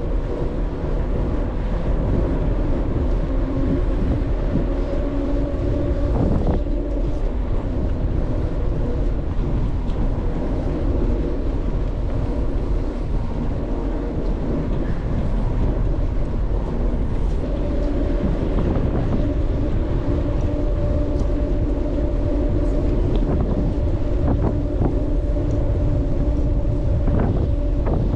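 Wind rushing over the microphone of a moving bicycle, with a steady low hum underneath and a few brief knocks.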